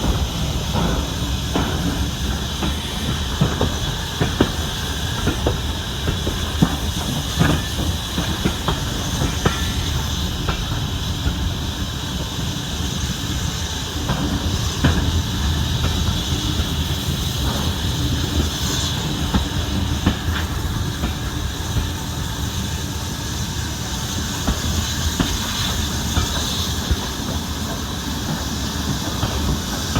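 Steam-hauled train behind BR Standard Class 9F 2-10-0 locomotive 92214 running along: a steady rumble and hiss with the wheels clicking over rail joints, the clicks thickest in the first third.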